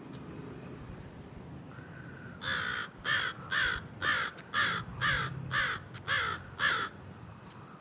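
A crow cawing: a run of about nine caws, roughly two a second, starting about two and a half seconds in.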